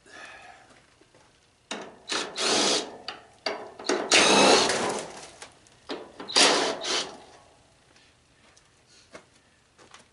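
Scraping and rubbing noise in three bursts, the longest about a second and a half near the middle, with a few small knocks between, as parts of an old tanning bed are worked on or shifted.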